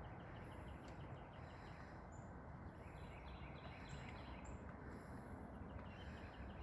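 Faint birdsong from several small birds: runs of quick chirps and brief high, thin whistled notes over a low steady background noise.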